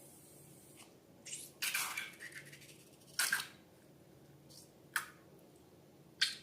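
Slime being squeezed and squished by hand, a handful of short sticky squishes with one longer one about a second and a half in.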